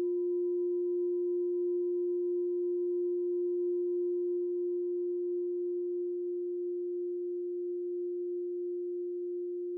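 A meditation bell's long ring slowly dying away: one steady low tone with a faint higher overtone that fades out near the end.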